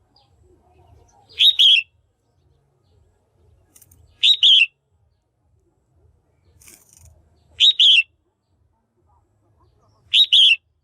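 Red-whiskered bulbul, given by the title as a female, calling four times, roughly every three seconds. Each call is a quick, clear phrase of two or three notes, of the kind used to stir up male bulbuls or to pair birds.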